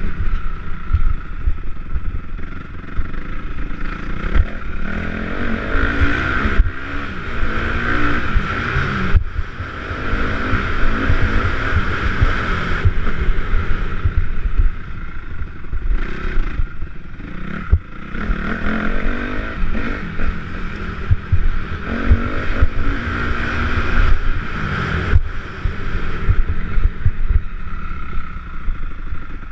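Motocross bike engines revving hard, their pitch climbing and dropping again and again with gear changes and throttle.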